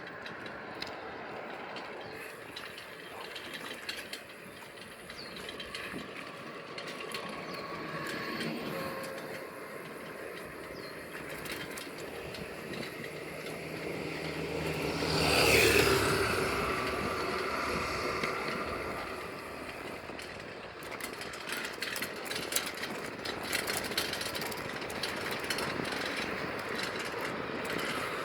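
Steady road and riding noise from a bicycle ride, with a vehicle passing about halfway through, swelling up to its loudest around the middle and fading away. A scatter of sharp clicks follows in the last third.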